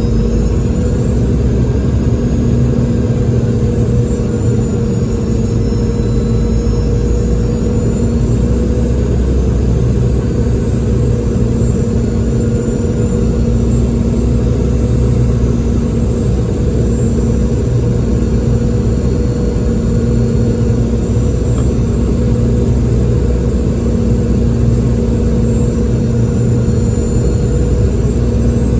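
Boeing 717's rear-mounted Rolls-Royce BR715 turbofans heard inside the passenger cabin: a steady, loud drone with a low hum and thin high whines that drift slowly in pitch as the engine settings change.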